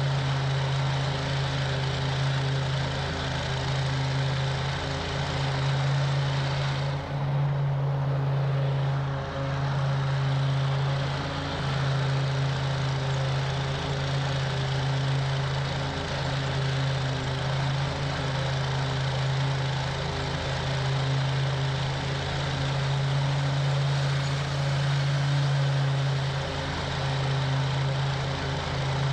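Toro Grand Stand stand-on mower's engine running steadily, with a constant low hum and a few brief dips in loudness.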